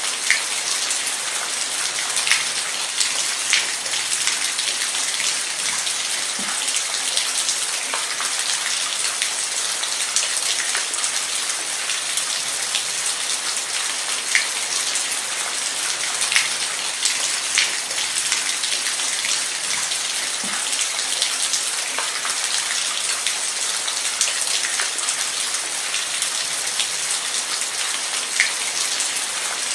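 Steady rain falling, a dense even hiss with single drops ticking sharply on a surface here and there.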